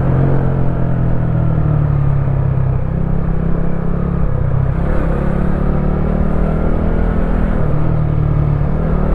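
Wolf Classic 125cc motorcycle engine running under way. The engine note drops about three seconds in and climbs again a couple of seconds later.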